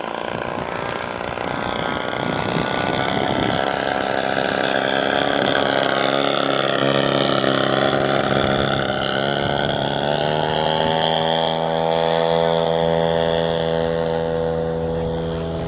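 Engine and propeller of a 40% scale Cessna L-19 Bird Dog RC model airplane in flight, getting louder and sliding in pitch as it passes, then holding a steady note over the last few seconds.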